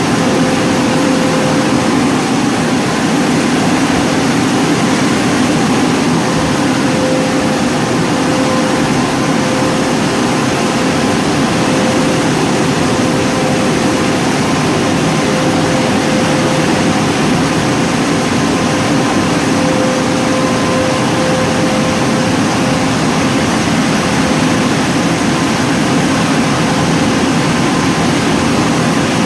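WashWorld Razor car wash's on-board dryer blowers running: a steady, loud rush of air with a constant whine.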